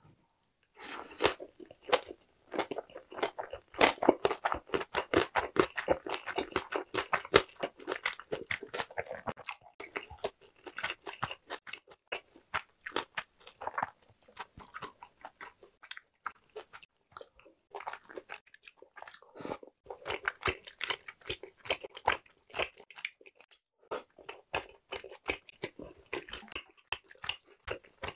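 Close-miked chewing of a mouthful of gimbap: a rapid run of crunching, clicking mouth sounds, densest for the first nine seconds or so, then coming in shorter bouts.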